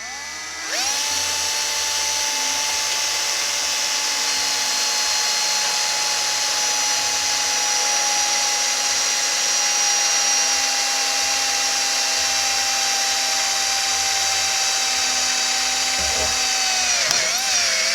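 Power drill running steadily under load, boring a stop hole into the steel frame rail at the end of a crack. Its motor whine winds up about a second in, holds an even pitch, and spins down near the end. The bit is slow to cut, and a better bit may be needed.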